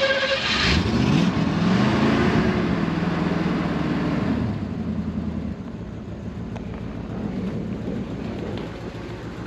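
1970 Ford Mustang's original 302 V8 with a two-barrel carburettor starting: it catches about a second in, revs up briefly, then settles by about the middle into a steady, quiet idle.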